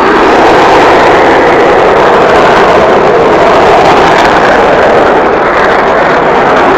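Loud, steady jet noise from a Panavia Tornado GR4's twin RB199 turbofan engines in flight.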